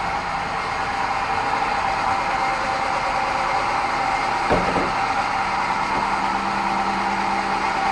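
Sawmill bandsaw running with a steady whine. A single knock comes about four and a half seconds in, after which a lower hum joins and holds.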